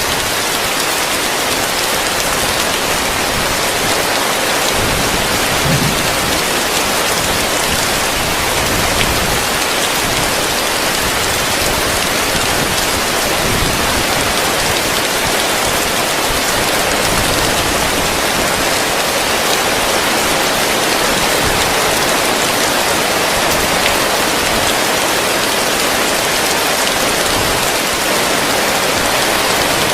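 Heavy rain falling steadily on a roof, an even dense hiss of drops heard from underneath.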